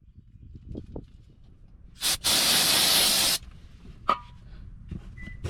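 Aerosol spray can: a brief spurt, then a steady spray lasting about a second and a half, followed by a single sharp metallic clink.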